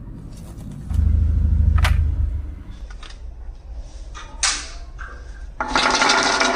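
Marbles rolling and clacking down a wooden marble run. A low rolling rumble and sharp clicks give way, a little before the end, to a loud, continuous rattle of many marbles running together.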